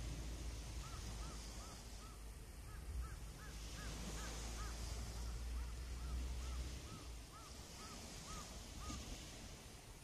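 Birds giving a quick, even series of honking calls, about three a second, starting about a second in and stopping near the end, with a second bird calling over the first for a couple of seconds. Beneath them, small waves wash softly on the shore over a low rumble that eases about two-thirds of the way through.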